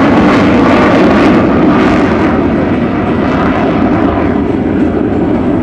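Jet noise from a T-50 Golden Eagle trainer's single General Electric F404 turbofan as the aircraft flies its display, loud throughout. The upper hiss thins out after about two seconds, and the sound eases slightly as the jet moves off.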